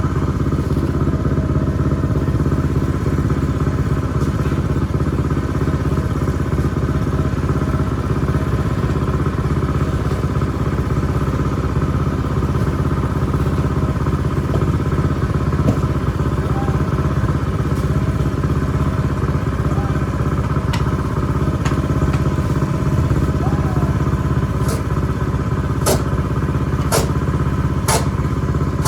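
Ariens 624E two-stage snowblower running steadily at working speed, its small engine giving an even drone. A few sharp clicks come near the end.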